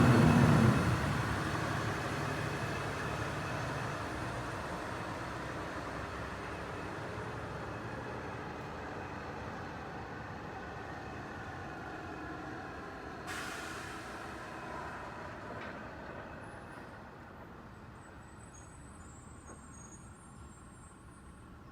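Truck passing and fading into the distance, its engine and road noise dropping away steadily over about twenty seconds. A short hiss of air-brake air comes about thirteen seconds in.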